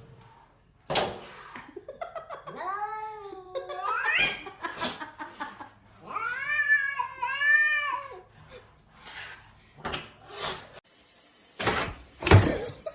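Domestic cat meowing in long, wavering calls: one drawn out and rising at its end, then two arching calls a few seconds later. Scattered knocks and rustles are heard between them, with a louder thump near the end.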